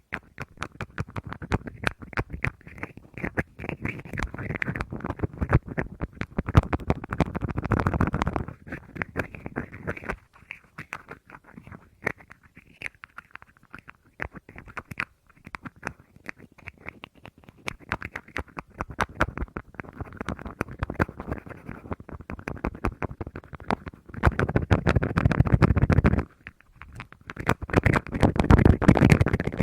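Close-miked fingernail tapping and scratching on a small object, a quick run of clicks with several louder stretches of dense scratching and rubbing.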